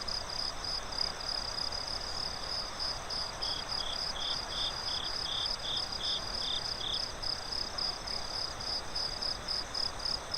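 Crickets chirping in a steady high-pitched pulse of about three chirps a second, with a second, lower-pitched cricket joining in for a few seconds in the middle, over a soft, even hiss of night ambience.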